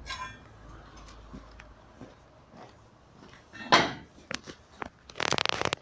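Handling noises: a brief rustle at the start, a loud knock-like burst about four seconds in, two sharp clicks, then a short rattling scrape near the end.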